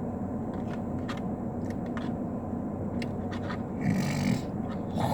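Chewing with small mouth clicks, and one breathy nasal sound about four seconds in, over a steady low hum inside a parked car.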